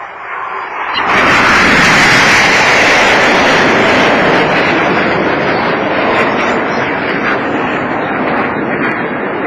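BAE Hawk T1 jets' Rolls-Royce Turbomeca Adour turbofans roaring past in a low display pass. The sound swells suddenly about a second in, is loudest a second later, then slowly fades.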